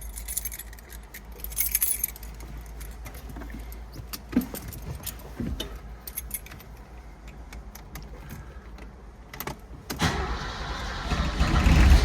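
Keys jangling and clicking as the ignition key is handled, then about ten seconds in the starter cranks the 1964 Mercedes-Benz 230SL's straight-six and the engine starts to catch near the end, louder. It is a cold start with no throttle applied.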